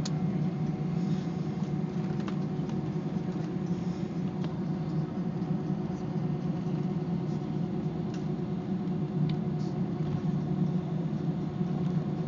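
Steady drone inside an airliner cabin while taxiing after landing: jet engines at idle and cabin air, with a low hum, a few steady tones and an occasional faint click.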